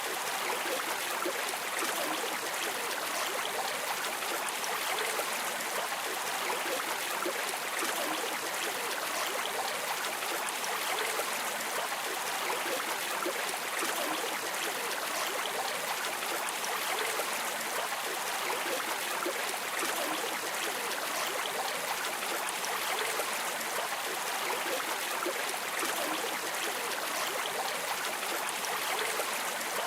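Flowing stream water rushing and trickling steadily, with no change in level.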